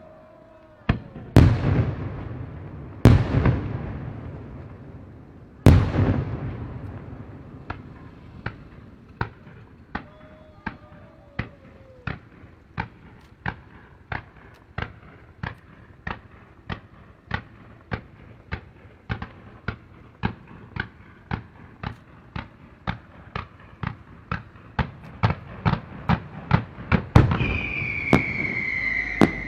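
Fireworks display: three heavy shell bursts in the first six seconds, each booming and echoing away, then a long, even run of sharp bangs about every half second that come faster near the end. A whistling firework sounds near the end.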